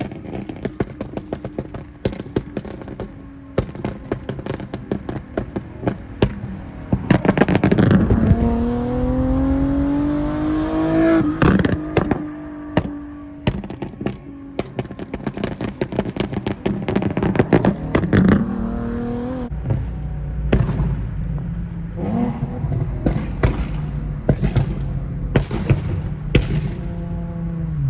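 Nissan 370Z's 3.7-litre V6 through a full ISR exhaust with longtube headers, revving up and down, with many sharp pops and crackles from the exhaust. The pitch climbs steadily from about 8 to 11 seconds, then drops off into a run of cracks.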